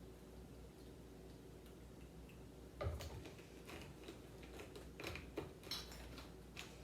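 Faint clicks and light taps of food containers being handled, with a soft knock about three seconds in.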